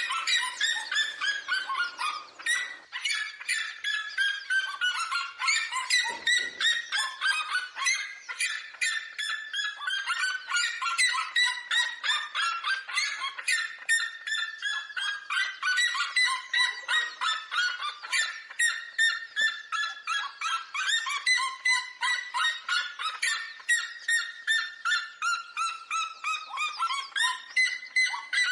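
Red-legged seriemas calling: long series of rapid, loud notes, each series falling in pitch, with several series overlapping as in a duet.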